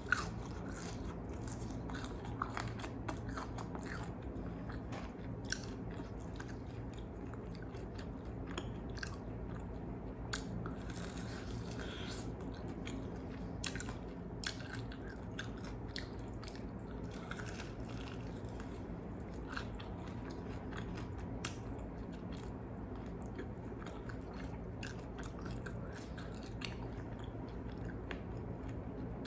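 Close-miked chewing of crispy fried chicken wings, with irregular sharp crunches as the coating is bitten, over a steady low hum.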